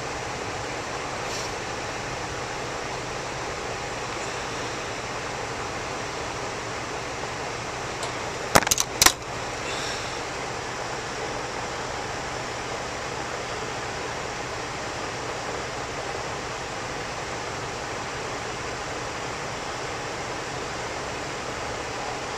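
Heat pump outdoor unit's condenser fan motor running steadily on its own, with the compressor silent while it waits to reset on its overload. A quick cluster of sharp clicks comes about eight and a half seconds in.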